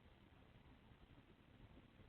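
Near silence: faint room tone and recording hiss.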